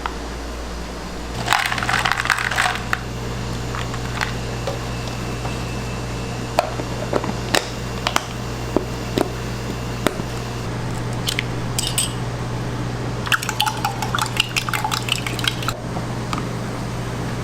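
Clinks and clatter of kitchen utensils and dishes at food-preparation work, in two busy spells (about a second and a half in, and again near the end) with scattered single taps between, over a steady low hum.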